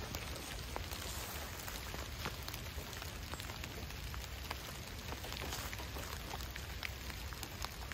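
Rain falling steadily, with many separate drops striking close by as short sharp ticks.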